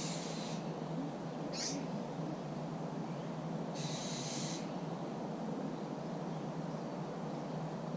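Birds in trees: a short high chirp about two seconds in, and two brief high buzzy calls, one at the start and one about halfway, over a steady low rushing background.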